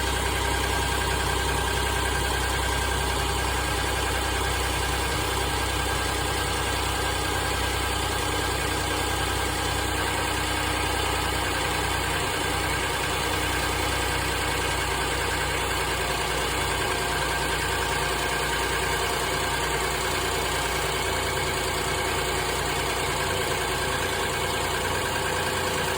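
Kia car engine idling steadily shortly after a cold start, with the cold-start vibration the owner is investigating.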